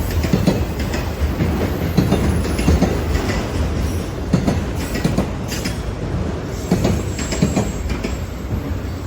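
A train rolling past: a steady rumble with repeated clicks of wheels passing over rail joints.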